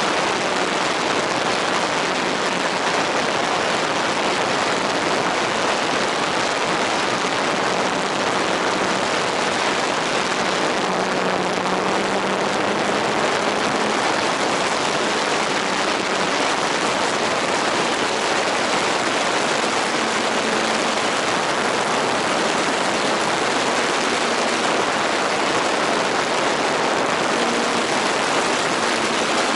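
A steady, even rushing hiss with a faint hum underneath that drifts slightly in pitch, as of a radio-controlled model airplane's motor.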